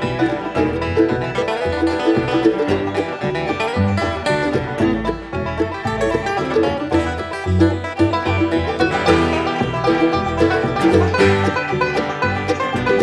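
Acoustic bluegrass band playing live, a fast instrumental passage with banjo picking over guitar and a steady bass line.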